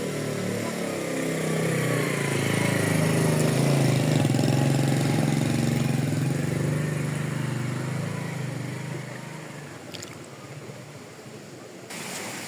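A motor vehicle's engine running, growing louder over the first few seconds and then fading away, as a vehicle passing by would.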